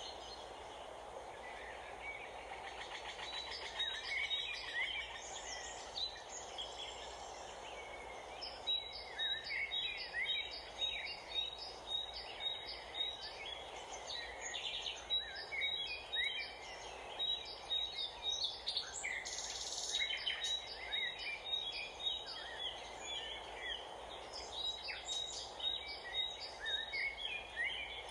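Several birds chirping over a steady hum of background noise. A fast run of short, evenly spaced high notes comes in about nine seconds in and keeps recurring.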